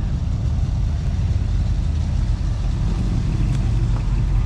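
Car engine running at low speed with a steady low rumble.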